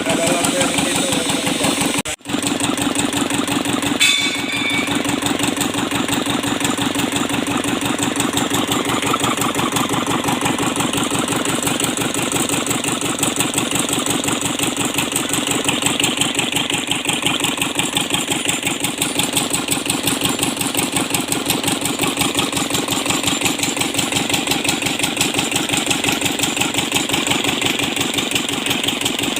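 Kubota Z751 two-cylinder diesel engine running steadily with an even rapid firing pulse.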